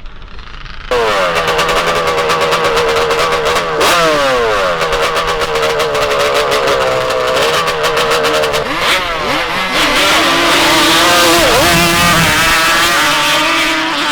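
Several racing bike engines drag-racing at full throttle, suddenly loud about a second in. Their pitch falls and rises several times.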